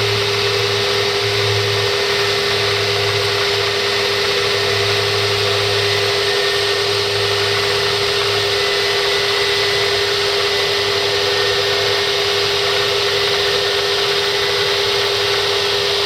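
1 HP Bridgeport vertical mill with a step-pulley head running at its high spindle speed, a steady whine and hum of motor, belt and spindle, with the quill power feed engaged. A lower hum in it drops away about halfway through.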